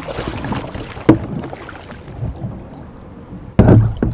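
Kayak paddling, with a sharp knock about a second in and a louder hollow thump near the end: the kayak's bow bumping against a floating plastic tank.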